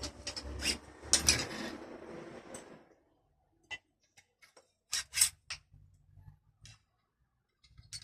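About three seconds of rustling and clattering, then scattered sharp clicks and light knocks of small tools and parts being handled during work on a car's power window mechanism.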